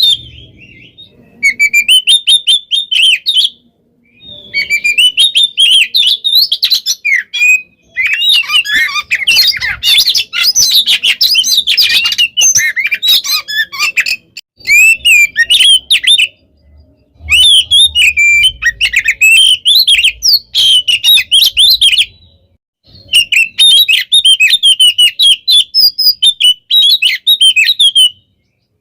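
Oriental magpie-robin (kacer) singing a fast, dense stream of varied whistles and chattering phrases, in several bouts broken by brief pauses.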